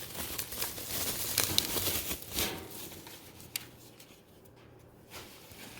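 Rustling of packaging and light clicks of small plastic vacuum parts being handled. It is busiest for the first three seconds, then fades to a few soft clicks.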